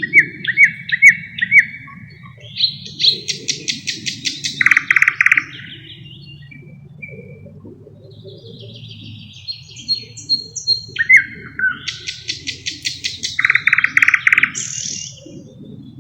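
Thrush nightingale singing two song phrases several seconds apart. Each starts with short whistled notes, speeds into a fast run of clicks and ends in a loud, low rattle. A steady low background rumble sits underneath.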